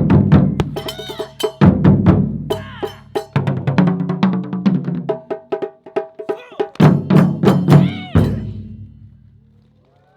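Japanese taiko ensemble drumming: fast strikes over deep strokes of large drums, with ringing metallic tones. The piece ends on a final big hit about eight seconds in that rings out and fades.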